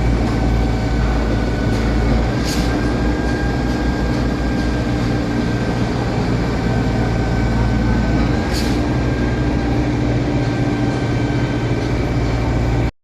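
Heavy diesel engine of a concrete boom pump truck running steadily under load, with a brief hiss twice. The sound cuts off suddenly near the end.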